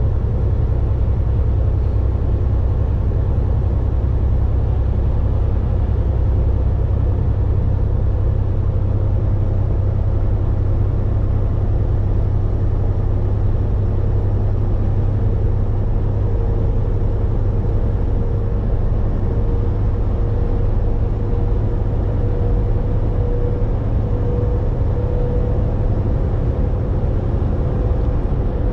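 Volvo VNL 860 semi-truck driving on the road, a steady low engine and road drone with a faint high steady tone over it in the second half.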